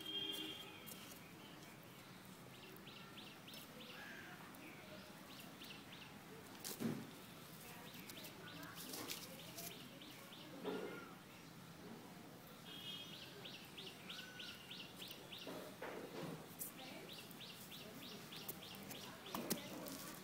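Faint outdoor ambience with small birds chirping in quick runs of repeated high notes that come and go. There are a few sharp knocks, the loudest about a third of the way in and another near the end.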